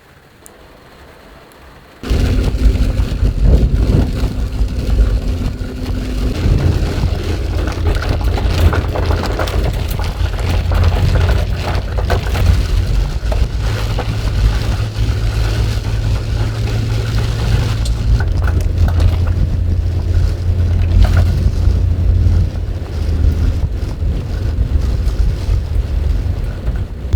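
Heavy, typhoon-like rain drumming loudly on the metal roof of a kei van, heard from inside, as a dense crackling hiss with a deep rumble, starting suddenly about two seconds in.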